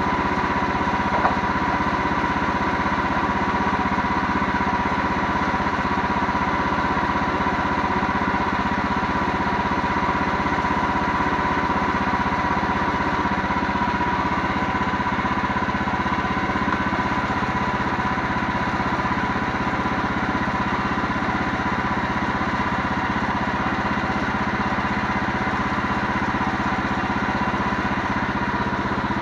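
An engine running steadily at an even speed, with a faint tick about a second in.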